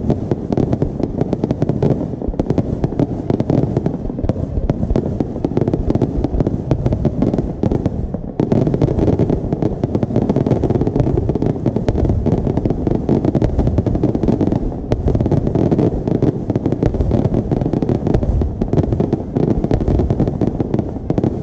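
Aerial fireworks display going off in a dense, rapid barrage of bangs and crackles that overlap almost without pause, easing briefly about eight seconds in.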